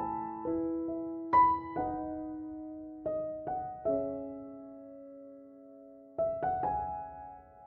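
Slow, gentle solo piano background music, single notes and soft chords struck a few at a time and left to ring and fade.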